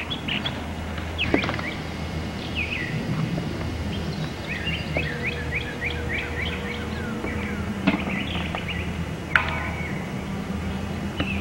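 Wild birds calling and singing, with a quick run of repeated chirps about halfway through, over a steady low hum. A couple of sharp knocks sound near the end.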